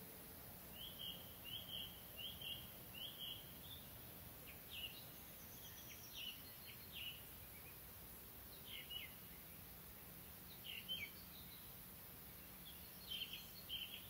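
Songbird singing in short phrases: a run of four quick chirps about two-thirds of a second apart, then scattered short phrases, some sweeping down in pitch, over a faint steady background hiss.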